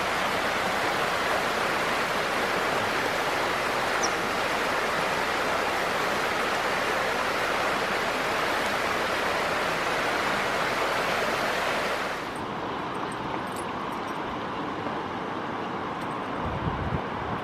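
Waterfall, a steady rush of falling water. About twelve seconds in it cuts to a quieter, duller rush with less hiss, and a few low bumps come near the end.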